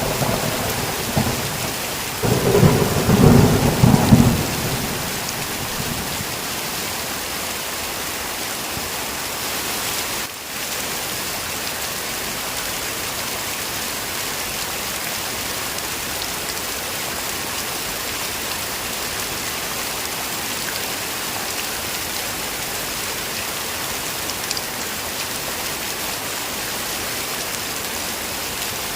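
Heavy rain falling steadily, with a rumble of thunder that swells and fades in the first few seconds.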